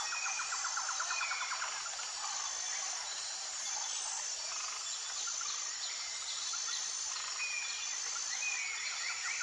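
Nature ambience of calling insects and frogs: a steady high buzzing chorus with repeating short notes, rapid pulsed trills near the start and again at the end, and a few short chirps.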